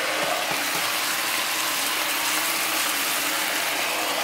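Chicken pieces sizzling in a lidded frying pan on an electric stove: a steady hiss.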